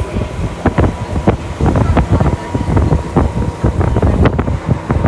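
Electric commuter train running at speed: a steady low rumble from the wheels and track, with frequent irregular knocks and clatter and a faint steady whine underneath.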